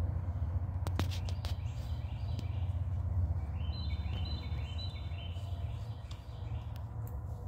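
A bird singing a quick run of repeated short chirping notes about halfway through, over a steady low rumble, with a few sharp clicks about a second in.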